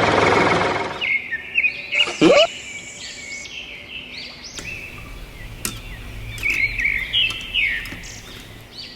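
Birds chirping and calling repeatedly in short bursts. A loud engine-like running noise fades out about a second in, and there is one brief sweeping sound shortly after.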